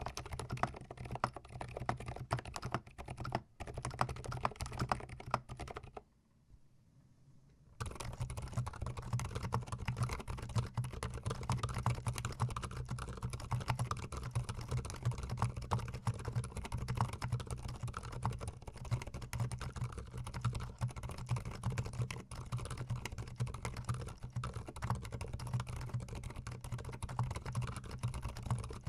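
Rapid typing on a GMMK Pro mechanical keyboard with mechanical switches, a dense run of keystroke clacks. It breaks off for about two seconds around six seconds in, then resumes.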